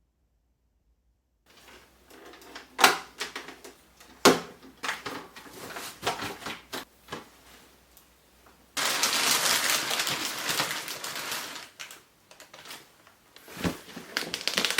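Handling clatter: a quick run of sharp clicks and knocks, then about three seconds of loud steady rustling hiss, then more clicks and a dull knock near the end.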